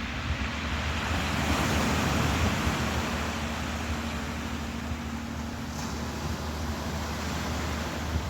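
Ocean waves washing in, swelling into a louder rush of surf about two seconds in and then easing off, over a steady low rumble.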